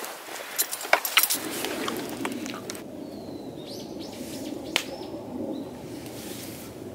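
A few sharp clicks or taps about a second in, then a handful of short, high bird chirps over a steady low background hum.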